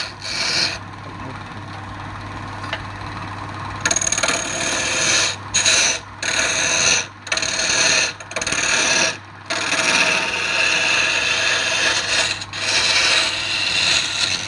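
Woodturning lathe with a tool or abrasive held against the spinning wood: a scraping hiss that comes and goes in strokes over the lathe motor's steady hum. It is lighter for the first few seconds and heavier from about four seconds in, with short breaks between strokes.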